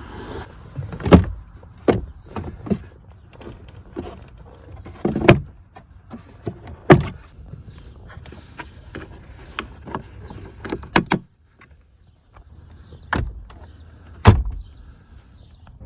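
Irregular sharp clicks and knocks of plastic parts being handled, likely the glovebox and cabin air filter housing of an Acura TL being opened and the filter worked in and out. A few of the knocks are loud.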